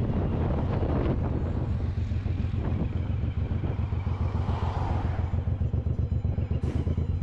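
Suzuki Boulevard M109R's 1800 cc V-twin running at low revs. From about two seconds in it settles into a quick, even, lumpy beat.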